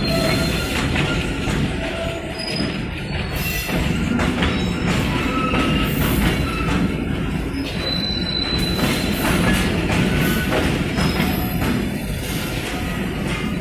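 A freight train of oil tank wagons rolling slowly past. The wheels rumble steadily on the rails, with short, high wheel squeals that come and go at changing pitches.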